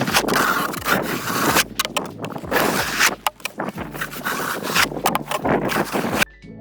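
Snow shovel scraping and scooping snow in repeated strokes, with brief pauses between them. The scraping cuts off suddenly near the end, and music takes over.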